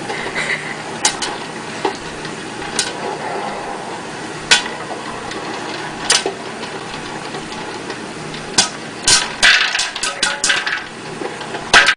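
Scattered sharp knocks and clatters over a steady background noise, coming thick and fast about nine to eleven seconds in, then cutting off suddenly at the end.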